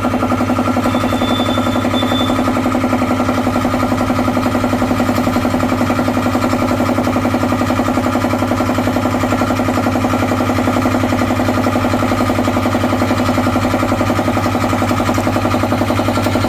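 Belt-driven piston air compressor running steadily, a constant hum with a fast, even pulse, as it pumps up a newly fitted air tank and the pressure builds.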